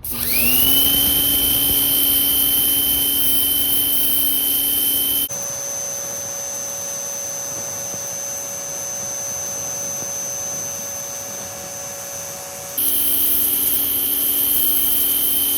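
Electric pressure washer motor and pump spinning up and running loud and steady, spraying a 0-degree jet with a high hiss. About five seconds in the sound cuts abruptly to a quieter hum at a different pitch. Near the end the loud spray returns, and it begins to wind down as it stops.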